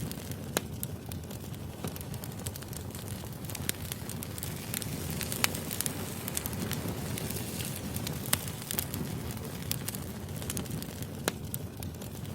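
Wood fire burning: a steady low rush of flames with irregular sharp crackles and pops from the burning firewood, a few of them louder than the rest.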